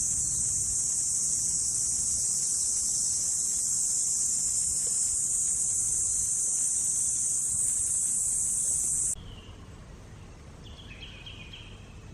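A steady, high-pitched insect drone that cuts off suddenly about nine seconds in, leaving quieter outdoor ambience with a few faint, short high chirps.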